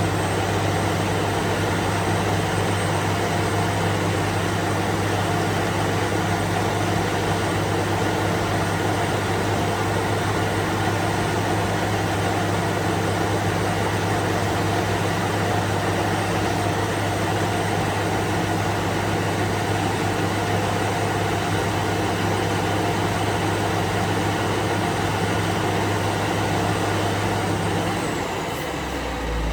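Truck engine running at a steady speed, a constant low hum that breaks off and quietens shortly before the end.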